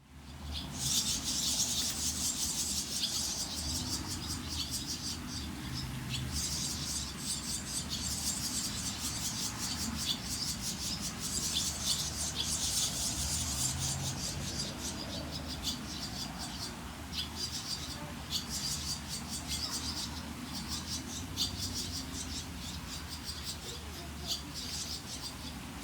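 Small birds at a nest chirping: rapid, high-pitched chirps in repeated bouts, over a low steady hum.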